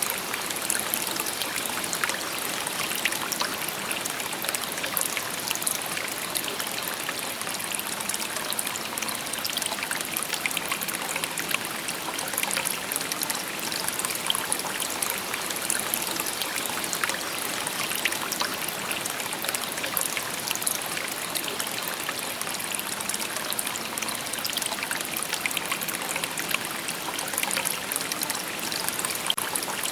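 A shallow river babbling steadily over stones, a continuous splashing and trickling with many small quick droplet sounds.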